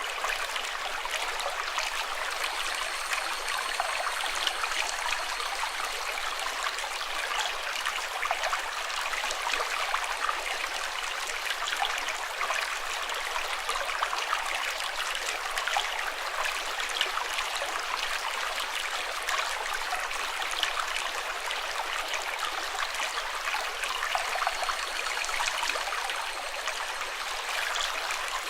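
Running water, a steady rushing hiss flecked with small trickles and splashes, like a stream.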